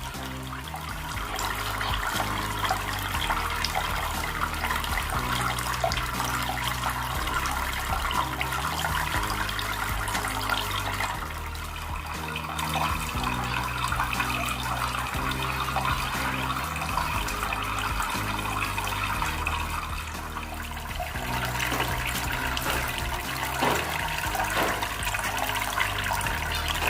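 Water splashing and trickling steadily down a small homemade cement waterfall fountain, over background music with sustained low notes that change every few seconds.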